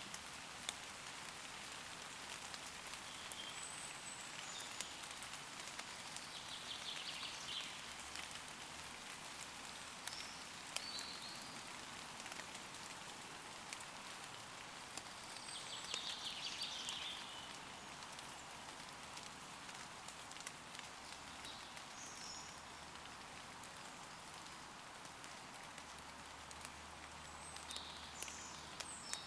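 Steady rain pattering on leaves, with individual drops ticking, while woodland birds give short high chirps and trills at intervals, the longest about 7 and 16 seconds in.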